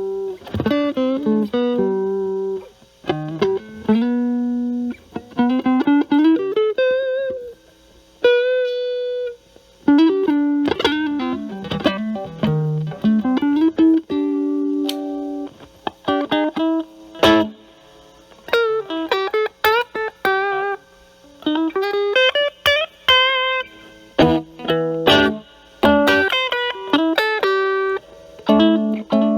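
Electric guitar, a Stratocaster with single-coil pickups, played through a Metal Pedals Rawhide overdrive pedal at a low gain setting into a Marshall Valvestate amp's clean channel, giving a cleaned-up, lightly driven tone. It plays improvised lead phrases of single notes and double stops with short pauses, including a held note with vibrato about eight seconds in.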